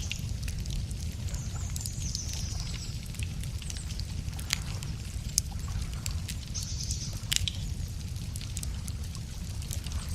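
Wood campfire crackling, with scattered small clicks and a few sharp pops about four and a half, five and a half and seven and a half seconds in, over a steady low rumble. A high bird call sounds twice, early on and again around seven seconds in.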